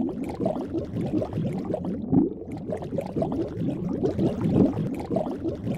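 A soft, continuous bubbling, watery sound-effect bed.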